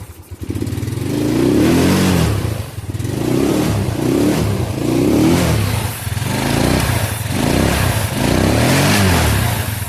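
Yamaha Mio Sporty scooter's single-cylinder four-stroke engine running again after a temporary fix to the intake manifold hose that kept pulling off and stalling it. It dips briefly at the start, then is revved about seven times, roughly once a second.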